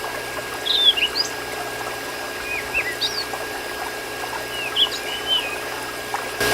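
Birds chirping in short rising-and-falling calls, several times over, over a steady watery hiss with a constant thin whine. Just before the end the hiss suddenly gets louder.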